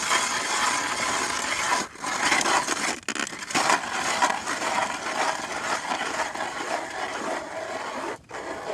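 Ice auger boring a hole through the ice: a steady grinding, crunching noise with two brief pauses, stopping suddenly near the end.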